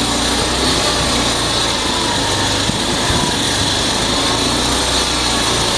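Railway locomotive machinery running steadily, a loud even noise with a low hum and a faint whine that wavers slightly in pitch.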